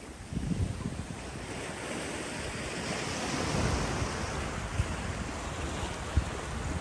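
Sea surf washing in on a rocky shore, the wash building about two seconds in and easing toward the end, with wind buffeting the microphone. Two brief knocks near the end.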